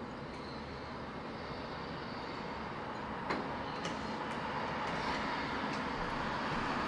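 Helicopter turbine and rotor running with a steady roar that grows slowly louder, with a single sharp click about halfway through.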